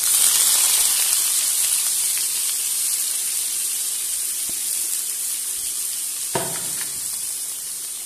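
Chopped raw pumpkin dropped into hot mustard oil in a steel kadhai, sizzling loudly at once and then easing off gradually. A short knock about six seconds in.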